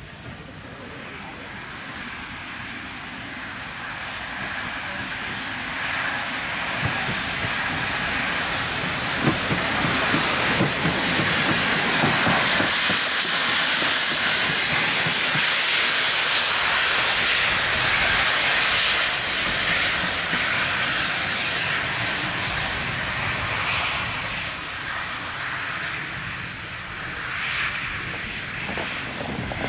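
A steam locomotive and its train passing by: the noise builds to its loudest about halfway through, then fades away.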